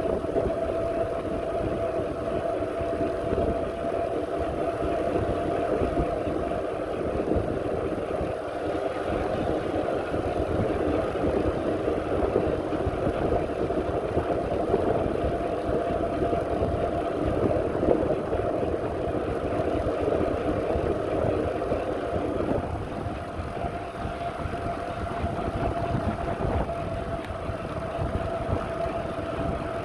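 Steady running noise of a bicycle ride: a constant whine over an irregular low rumble of wind and ground on the microphone.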